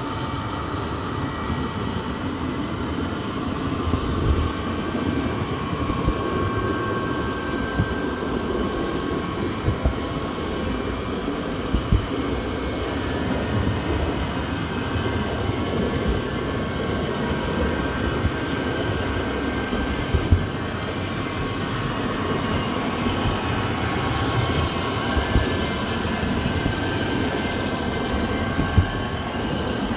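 Train rolling along the track: a steady rumble with short knocks from the wheels every few seconds and faint thin squealing tones.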